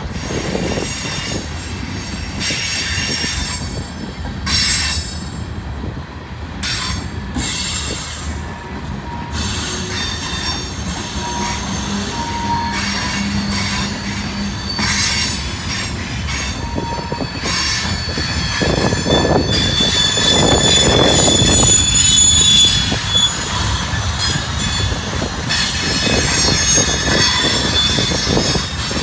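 Freight train cars (tank cars, then gondolas) rolling steadily past, wheels clattering on the rails. High-pitched wheel squeal comes and goes and is strongest a little past the middle.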